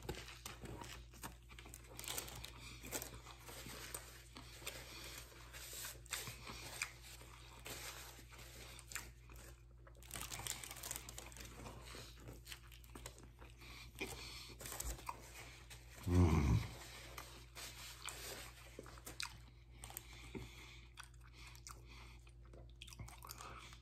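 Close-up eating of a vegetarian sub sandwich: bread crunching and tearing with each bite, and wet chewing. About two-thirds of the way through comes one short, low vocal sound.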